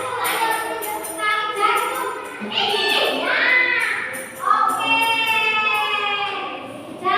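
Young children's voices in a sing-song chant, with long drawn-out notes in the second half.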